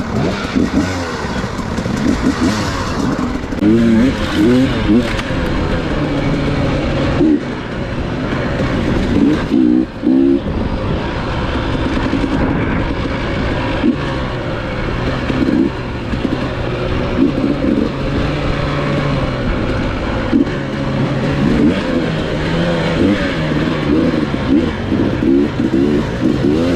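Off-road dirt bike engine running and revving up and down as it rides, over steady rushing wind and terrain noise.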